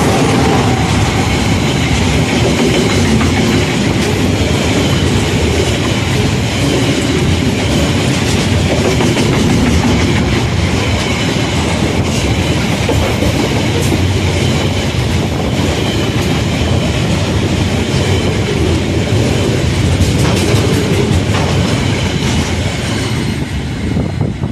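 Freight train passing close by: locomotives go by first with their engine tones, then a long string of container wagons rumbles past with the wheels clicking over the rails. The noise starts to fall away near the end as the last wagon passes.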